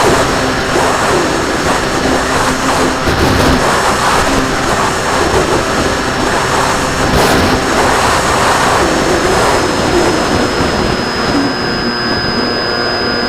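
RC plane's motor and propeller running steadily in flight, picked up by the onboard camera's microphone under heavy wind rush, with a thin high whine.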